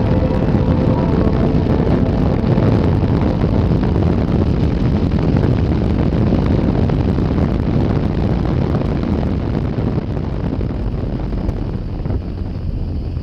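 Wind rushing over the microphone of a moving motorcycle, a dense steady roar that eases slightly near the end.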